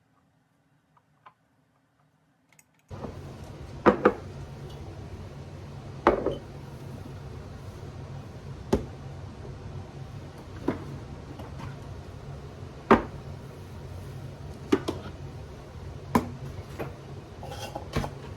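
Chopped cucumber spears and chips being packed into glass canning jars: sharp clinks and knocks against the glass every second or two, over a steady low hum. The first three seconds are near silence.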